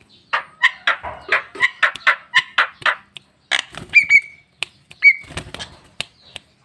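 Javan myna calling: a quick run of harsh chattering notes, about four a second, then two short whistled notes about a second apart.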